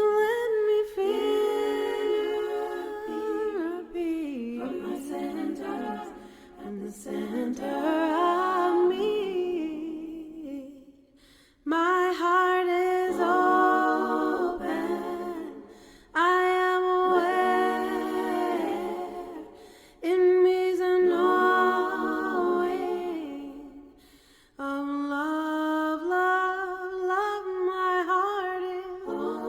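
Unaccompanied voice singing and humming a slow melody in drawn-out phrases of about four seconds each, with short breaks between them.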